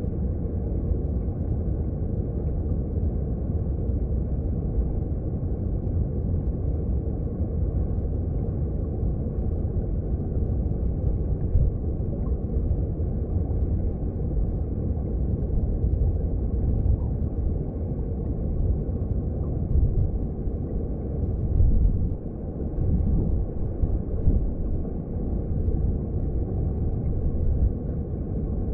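Underwater recording of a mountain stream: a steady, deep rumble of flowing water, with little high-pitched sound.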